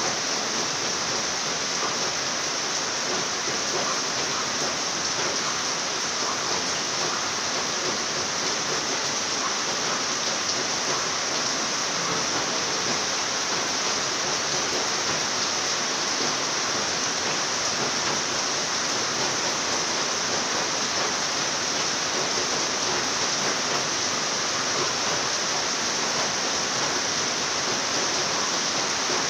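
Steady rain falling, an even, unbroken hiss that never changes in level.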